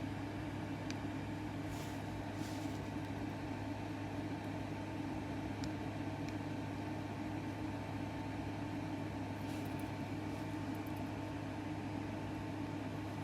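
Steady electrical hum of a fan or small motor, with a few faint light ticks.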